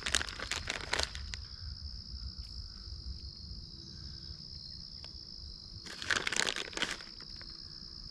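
Plastic bag of shredded cheese crinkling in two bursts, at the start and again about six seconds in, over a steady high-pitched insect drone.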